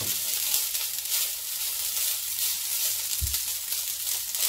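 Fried rice sizzling steadily in a nonstick frying pan, with a single low knock about three quarters of the way through.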